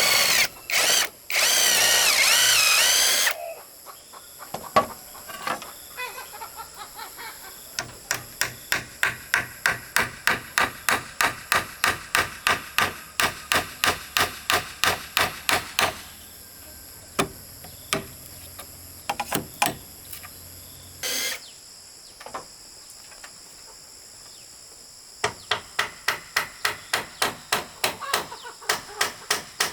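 Hammering on wood or bamboo: runs of sharp, evenly spaced blows, about three a second, with pauses between the runs. A loud wavering whine sounds for a few seconds at the start.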